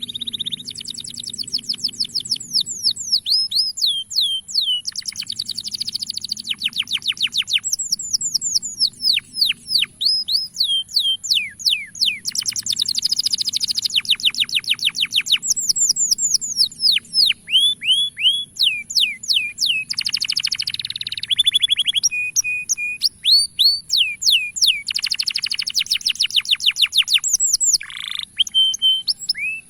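Male domestic canary singing a long, continuous song: fast trills of quickly repeated downward-sweeping notes, phrase after phrase with only brief pauses, over a faint steady high-pitched tone.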